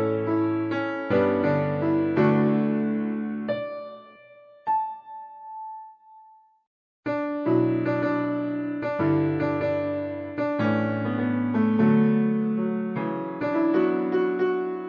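Solo piano playing sustained chords under a melody. About three and a half seconds in, the chord dies away and a single high note rings out alone, followed by a short silence. Full chords resume at about seven seconds.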